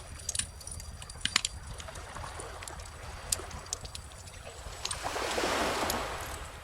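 Wood bonfire crackling, with scattered sharp pops and snaps, over the soft wash of calm ocean waves; one wave swells in about five seconds in and drains away just before the end.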